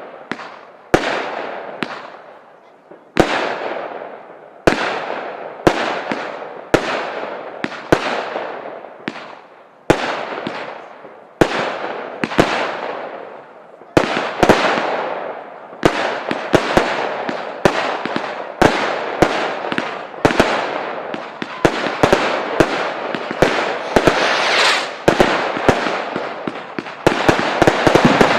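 Fireworks display: shells bursting one after another, each sharp bang trailing off over about a second. About halfway through the bangs come faster and overlap, and near the end they come in a rapid volley.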